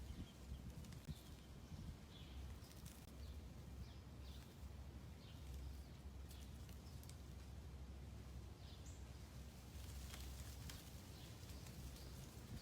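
Faint outdoor ambience: a bird chirping repeatedly, about once a second, over a low steady rumble, with a few light ticks.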